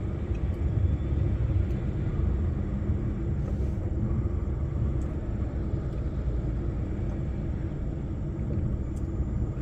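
Heavy lorry's diesel engine running with a steady low rumble, heard from inside the cab as the truck gets moving again in stop-and-go traffic.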